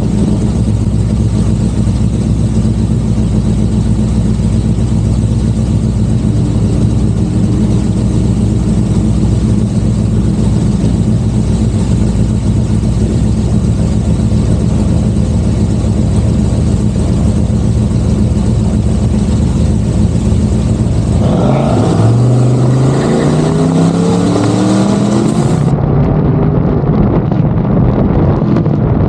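Car engine running steadily at a constant pitch for about twenty seconds, then the car launches hard. The revs rise in a few quick sweeps as it pulls through the gears.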